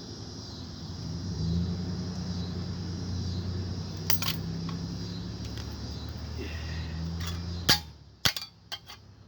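A small motor hums steadily for about six seconds, then stops abruptly with a sharp click. A couple more sharp metallic clicks follow.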